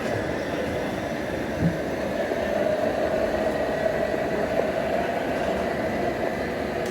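Radio-controlled trucks running: a steady mechanical hum and rattle with a faint high whine.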